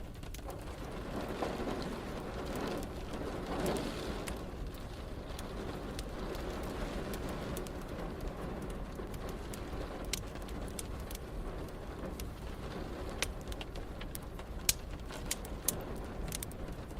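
Steady rain falling, with a low thunder rumble swelling and fading in the first few seconds. Sharp crackles and pops of a wood fire are scattered throughout, more of them in the second half.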